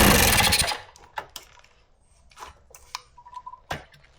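Kawasaki KD80's two-stroke engine kicked over, a loud noisy burst of just under a second, followed by light metallic clicks and taps.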